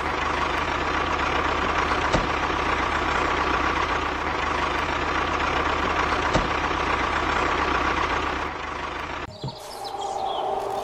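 A motor running steadily with a constant whine, with a faint click twice. It cuts off abruptly about nine seconds in.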